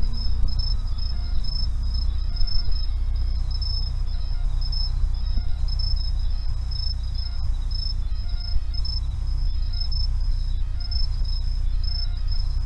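Insect trilling in a steady run of short high-pitched pulses, over a low steady rumble.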